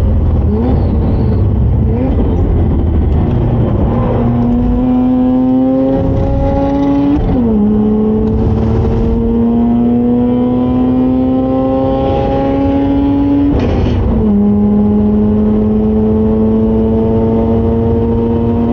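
Mazda RX8's twin-rotor rotary engine pulling hard under load, its pitch climbing slowly through each gear and dropping sharply at two upshifts about seven and a half and fourteen seconds in, over low road and wind rumble.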